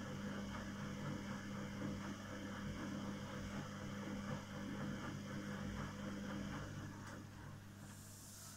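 Samsung Eco Bubble washing machine running a 40° wash cycle: a steady motor hum under water and laundry churning in the turning drum. The churning dies away near the end.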